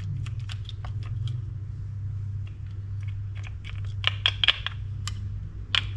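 Small parts of a Daiwa Catalina 6500H spinning reel clicking and tapping as they are handled and taken off during a teardown. A cluster of sharper clicks comes about four seconds in and another near the end, over a steady low hum.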